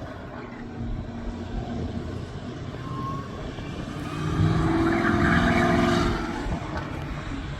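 Car engine running on a race track, louder for about a second and a half past the middle as it comes by, then fading.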